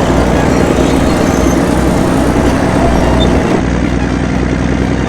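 Heavy diesel engine running steadily and loud, a dense low rumble with no breaks.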